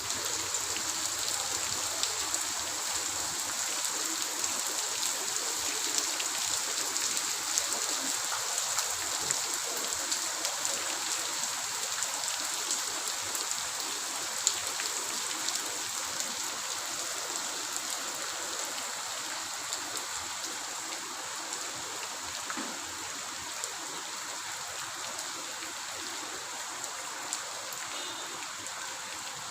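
Heavy rain falling steadily, a dense hiss of countless drops hitting surfaces, easing slightly in loudness toward the end.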